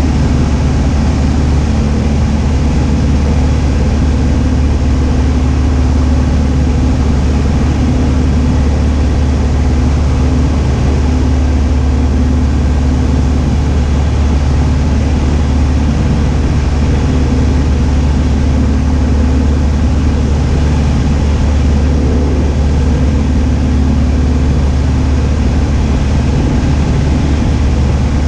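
Cessna 172H's six-cylinder Continental O-300 engine and propeller in flight, a loud, steady drone heard from inside the cabin.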